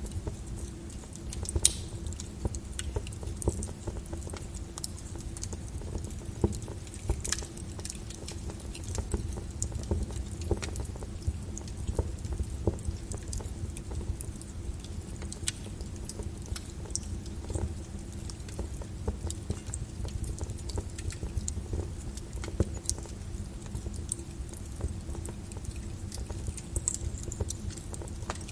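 Wood fire crackling with irregular sharp pops, layered over a steady patter of rain on a window and a low rumbling hiss.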